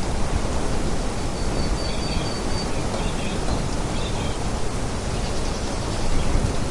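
Steady rushing storm ambience of wind and rain, with a few faint high chirps in the first half.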